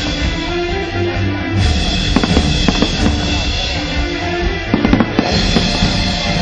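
Fireworks bursting over loud music with a heavy drumbeat, with a cluster of sharp cracks about five seconds in.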